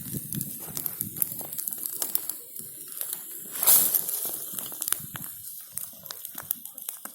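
Bonfire of burning branches crackling, with many sharp irregular pops and a louder hissing flare about three and a half seconds in.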